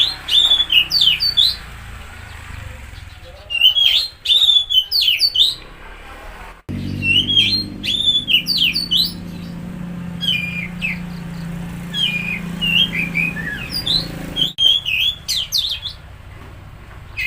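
Oriental magpie-robin (kacer) singing in bursts of quick, varied whistled phrases with chirps and harsher notes, about six phrases separated by short pauses; this is a lure song used to coax a stressed, non-singing kacer into singing. The sound cuts out abruptly twice, and a low hum runs under the middle stretch.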